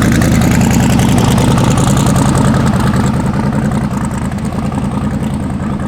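Loud drag car engine running at a steady low speed near idle, with a rapid, even firing pulse; it eases off slightly in loudness toward the end.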